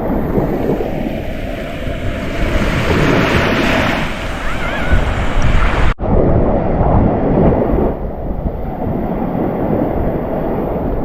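Sea waves washing onto a sandy beach in strong wind, with gusts buffeting the microphone in a heavy low rumble. The sound drops out for an instant about six seconds in.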